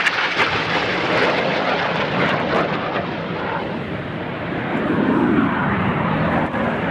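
Jet noise from the Red Arrows' BAE Hawk T1 jets and their Adour turbofan engines, a loud rushing sound as the formation flies overhead. It eases slightly partway through, then swells again about five seconds in as the jets come closer.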